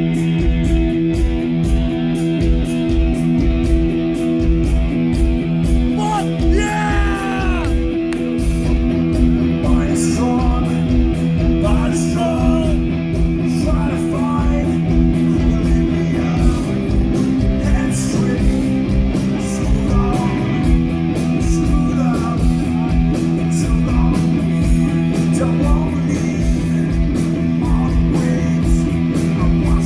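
A rock band playing live: electric guitars and bass holding chords over a steady drum beat, with some singing, including a short rising-and-falling vocal line about seven seconds in.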